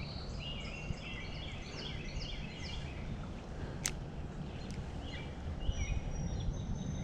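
A songbird singing runs of short, quick chirping notes, over a steady low outdoor background rush. A single sharp click comes about four seconds in.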